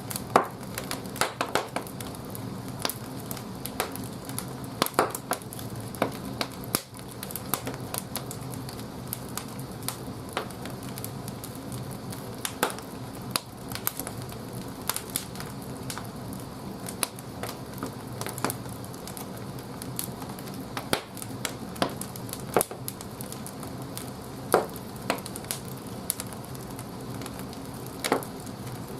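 Firewood burning in the firebox of a wood-fired bathhouse boiler, crackling with frequent irregular pops and snaps over a steady low hum.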